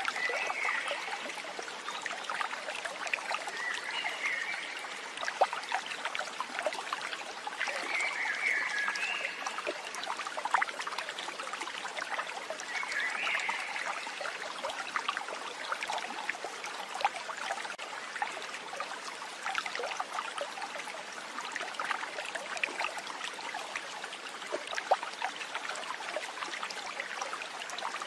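Water trickling and splashing steadily, like a small stream, with a few short high chirps in the first half.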